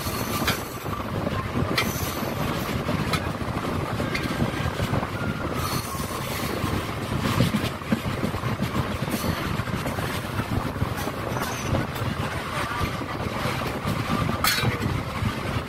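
Train running on the track, heard from on board: a steady rumble of wheels on rail with occasional clicks from rail joints and a faint wheel squeal that comes and goes.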